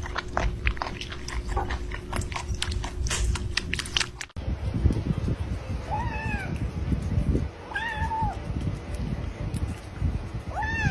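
A cat meowing three times, each call rising and then falling in pitch, about two seconds apart, over low rumbling background noise. Before the meows comes a run of quick clicks and taps.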